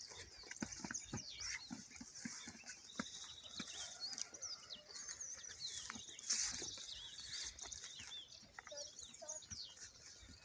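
Birds chirping, with a trill about three seconds in, over scattered short knocks and rustles.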